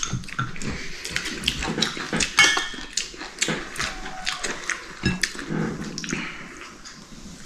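Meal noises: a run of small clicks and knocks from dishes and chopsticks, with eating sounds.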